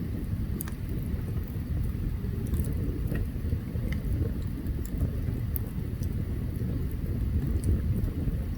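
Open campfire burning: a steady low rumble with scattered sharp crackles and pops.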